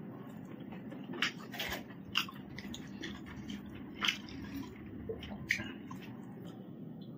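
A person chewing food with wet, irregular mouth clicks and squelches, and a few sharper smacks.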